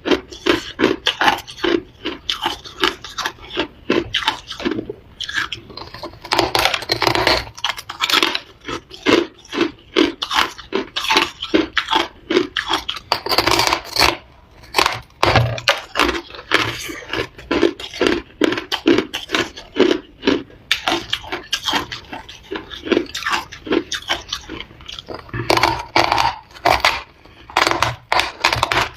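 Close-up crunching of ice being bitten and chewed, a quick run of sharp cracks at about three a second, with a short break about halfway through.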